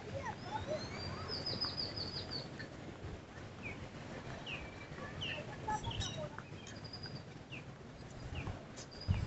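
Birds chirping: a quick run of short, high repeated notes early on, then single short falling chirps every second or so, over a low steady rumble. A low thump comes near the end.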